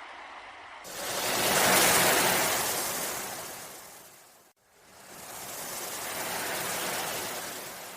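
Sea waves washing in: two surges, each swelling and then fading away. The first begins suddenly about a second in, and both end in an abrupt cut, the mark of a looped wave recording.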